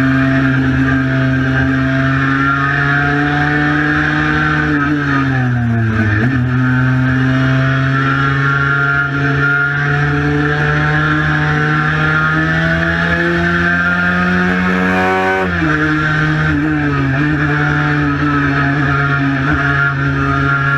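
Cagiva Mito 125's single-cylinder two-stroke engine running hard under way, its pitch dipping and picking up again about six seconds in, then climbing slowly before dropping sharply about fifteen seconds in.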